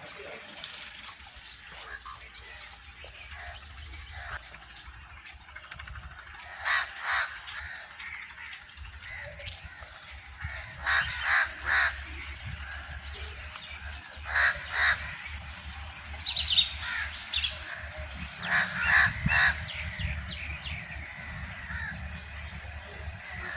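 Birds calling: short, loud calls in clusters of two or three, repeated every few seconds, over fainter chirping.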